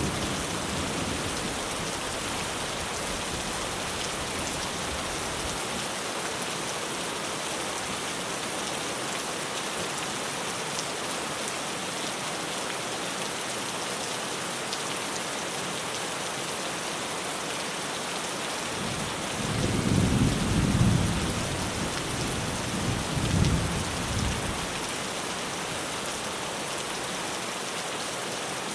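Rain falling steadily on a tin roof in an even hiss. About two-thirds of the way in, a rumble of thunder swells, peaks twice, and dies away.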